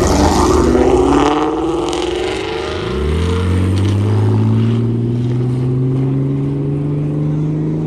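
Car engine accelerating away: the pitch rises, drops once about three seconds in at a gear change, then climbs slowly again in the next gear.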